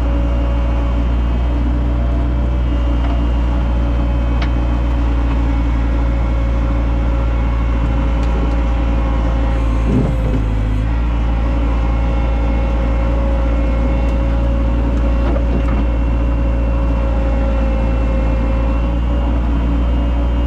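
Heavy machine's diesel engine running steadily, with a brief change in pitch about halfway through.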